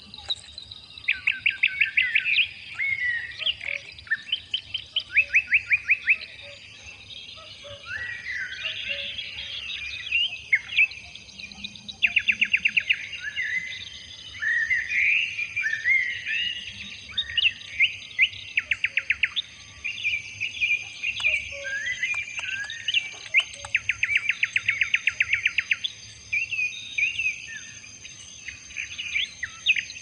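Forest birds singing: fast trains of rapidly repeated notes, each lasting a second or two and recurring every few seconds, mixed with warbling, chattering phrases. A faint steady high-pitched drone runs underneath.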